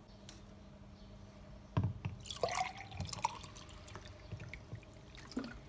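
Small handling sounds: a knock a little under two seconds in, then a short run of clicks and drip-like liquid sounds, and one more click near the end.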